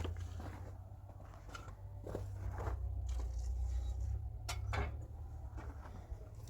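Scattered crunching and scraping of soil and grit being worked by hand, over a steady low rumble.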